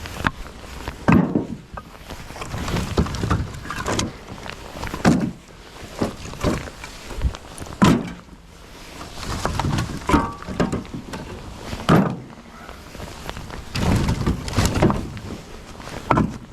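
Pieces of split firewood being thrown and knocking against other wood, a hollow thunk every second or two.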